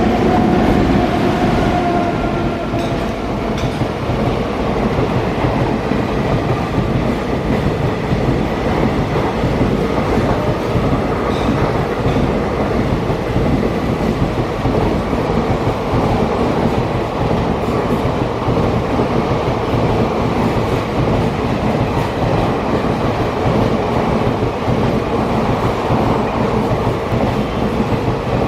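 Express train running past close by: a loud, steady rumble of wheels on rails with a few faint clicks.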